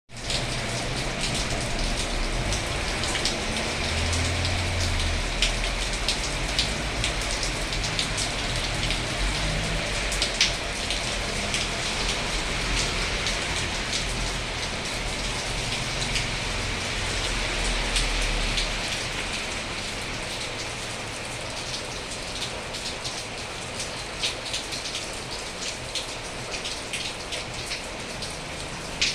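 Steady rain falling, with many individual drops clicking close by. It eases slightly after about twenty seconds.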